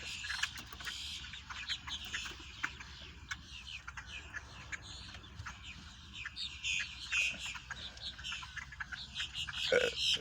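A flock of small wild birds chirping, many short, rapid chirps overlapping.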